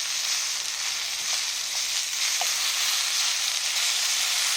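Pork chop sizzling steadily in a cast-iron skillet, an even frying hiss with a few faint ticks.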